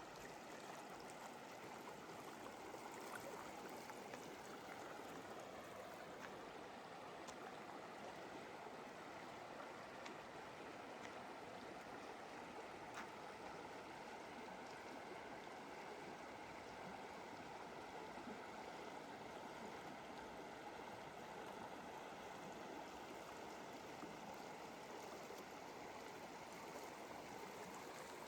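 River water flowing, a steady, even rush that runs on without change.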